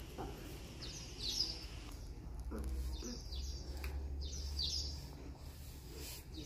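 Small birds chirping in three quick bursts of short high calls, over a low steady rumble.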